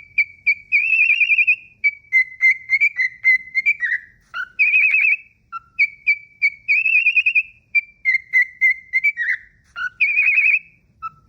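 Cockatiel whistling a learned tune. The same phrase comes round about every five seconds: a few short high notes, a warbling held note, then a run of falling notes ending on a lower note.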